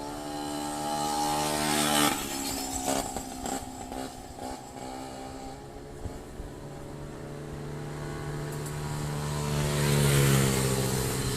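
Strong gusting wind rushing over the microphone, surging about two seconds in and again near the end, over a steady droning hum.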